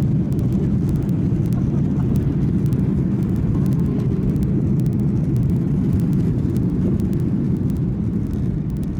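Airliner cabin noise: a steady low rumble of engines and airframe heard from inside the passenger cabin, easing slightly near the end.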